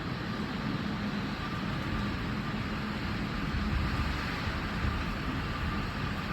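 Heavy downpour heard through a closed window: a steady, even hiss of rain, with a low rumble that swells slightly in the middle.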